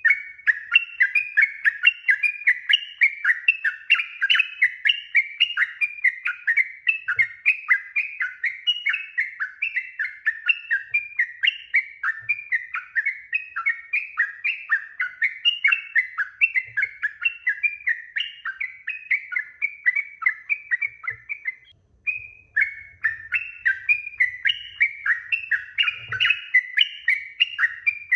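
Yellow-vented bulbul (trucukan) singing a long, quick run of bubbly, rising-and-falling phrases, with a brief pause about 22 seconds in before the song resumes.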